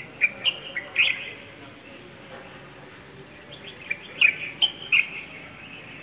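Small birds chirping in a tree. Short, sharp chirps come in two bursts: a run of several at the start and another about four seconds in.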